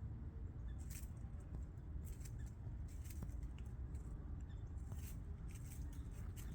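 Low steady rumble with scattered soft clicks and rustles, about half a dozen across the few seconds.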